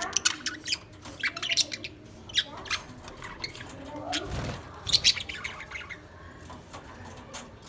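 Lovebirds chirping and squawking: rapid clusters of short, sharp, high-pitched calls, with a brief burst of rustling noise about halfway through.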